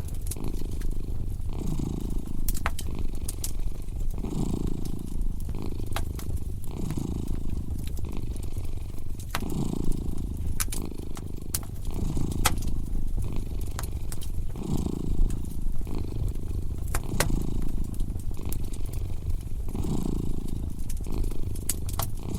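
Cat purring steadily in slow breath-by-breath swells, with a wood fire crackling: scattered sharp pops and snaps over it.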